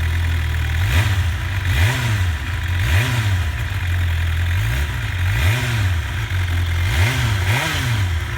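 2019 Suzuki GSX-R750's inline-four engine through its stock exhaust, idling and revved in about seven quick throttle blips, each rising and dropping straight back to idle.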